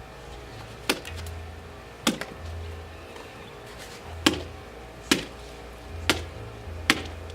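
Small hammer striking a watermelon with its sharper side, six separate sharp whacks about a second apart.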